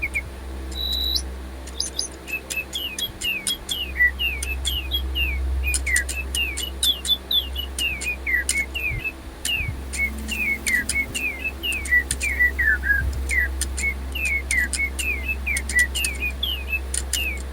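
Silverlit DigiBirds robot toy birds playing an electronic birdsong: quick short falling whistles and chirps, several a second, over a steady low hum.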